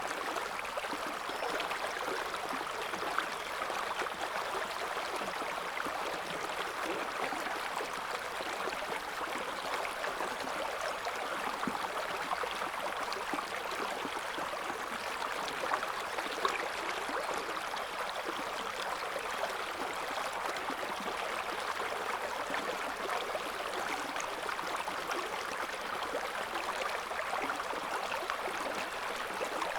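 River water flowing steadily, an even, unbroken rush of moving water.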